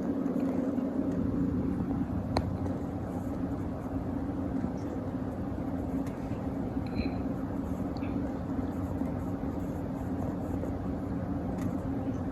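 A steady low rumbling hum, with a faint short high squeak about seven seconds in.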